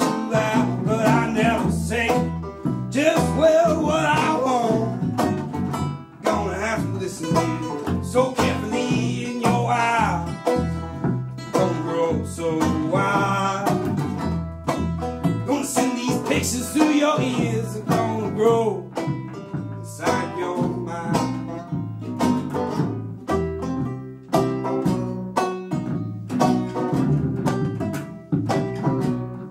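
Live acoustic string-band music with banjo picking and strummed guitar, playing an instrumental stretch of a country-bluegrass song.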